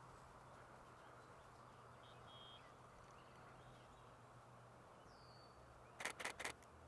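Nikon Z6 II camera shutter firing three frames in quick succession about a second before the end, over near silence with a faint bird call shortly before.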